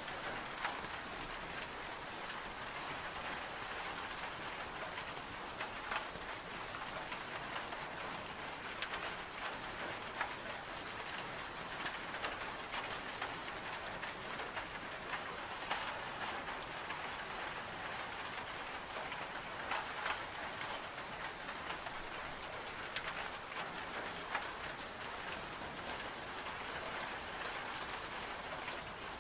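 Steady rain falling: an even hiss with many scattered, sharper drops ticking through it.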